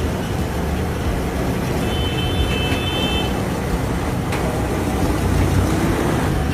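Road traffic dominated by the steady low engine rumble of a large truck moving slowly. About two seconds in, a short high-pitched steady tone sounds for a second or so.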